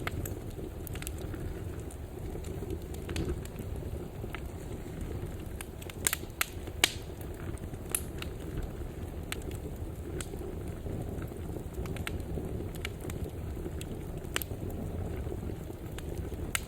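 Wood fire burning in a fireplace: a steady low rumble of flames with scattered sharp crackles and pops, a few louder pops about six to eight seconds in.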